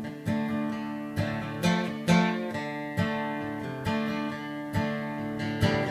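Acoustic guitar strummed in a slow country accompaniment, chords ringing between the strokes.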